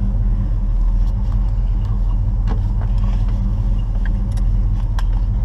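Chevy 350 V8 in a 1972 Chevy Nova idling steadily at a slightly raised idle, with a few faint clicks over it.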